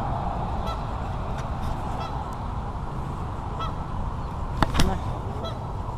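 A goose honking in the distance, a few brief calls over steady outdoor background noise, the clearest about four and a half seconds in.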